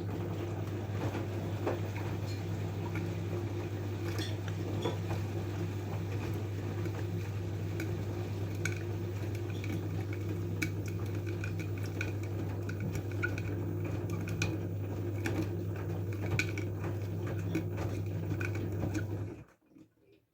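LG F12A8ND washing machine's drain pump running with a steady low hum, scattered clicks and clinks over it, then cutting off suddenly near the end.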